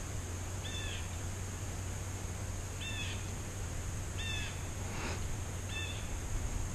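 Four short, downward-curving animal calls spaced a second or two apart, over a steady high hiss.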